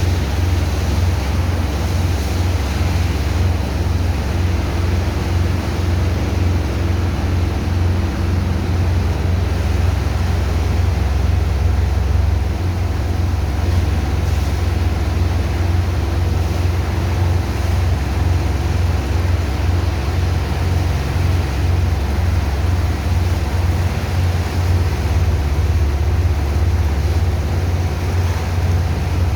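Sand dredger's pump engine running steadily with a deep, even drone while it pumps sand from the ship.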